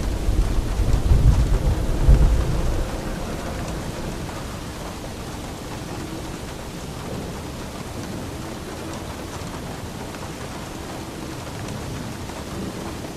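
Steady rain with a roll of thunder: a deep rumble swells in the first two seconds, then dies away, leaving the even hiss of rainfall.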